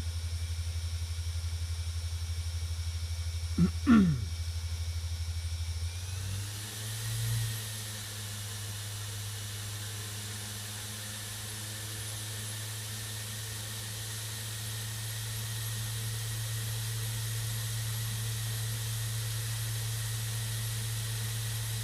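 Navien tankless water heater running after a reset: a steady pulsing machine hum, with two short louder sounds near four seconds in. About six seconds in the sound shifts to a higher steady hum under a continuous hiss.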